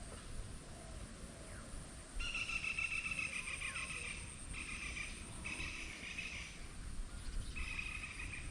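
Village outdoor ambience before rain: wind rumbling on the microphone under a thin, steady, high insect whine. About two seconds in, a loud buzzing insect trill starts in bouts of about a second that break off and start again several times, with a few short bird chirps.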